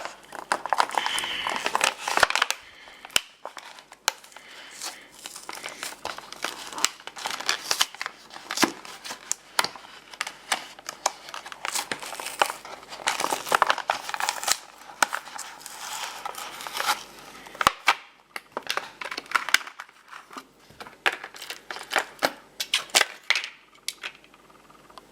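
Plastic blister packaging and cardboard crinkling and tearing as a die-cast toy truck is unboxed: a long run of irregular crackles and rips, with brief lulls in the last third.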